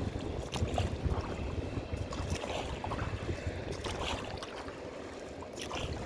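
Rowboat oars dipping and splashing at a slow, even stroke, about one splash every second and a half, over wind rumbling on the microphone.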